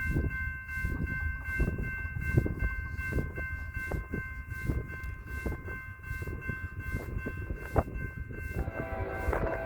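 Grade-crossing bell ringing steadily, about three strokes a second, over the low rumble and knocks of an approaching freight train. Near the end the leading GE ES44DC locomotive's horn starts sounding a chord.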